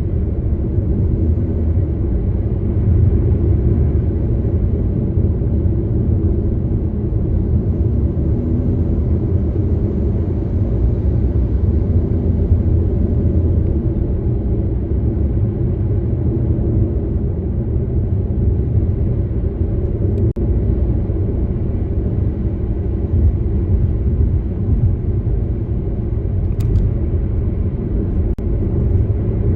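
A car driving along a road: a steady low rumble of tyre and engine noise, with two faint clicks late on.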